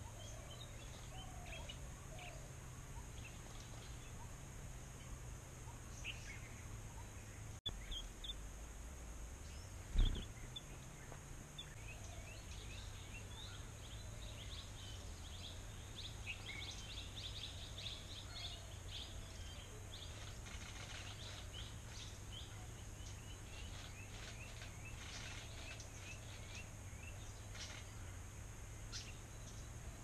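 Wild birds chirping and calling, many short overlapping calls, over a steady high hiss and low rumble of outdoor ambience. One dull thump about ten seconds in.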